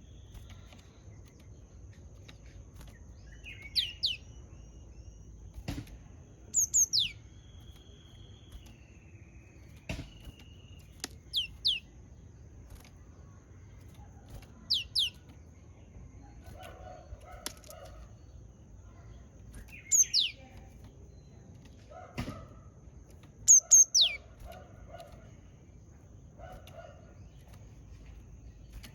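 Japanese tit calling: groups of two or three sharp notes, each sweeping steeply down in pitch, repeated every three to five seconds. A few sharp knocks fall between the calls, and a faint steady high tone sits under everything.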